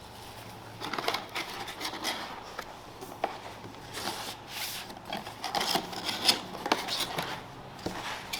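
Irregular rustling, scraping and light clicks of things being handled, over a low steady hum.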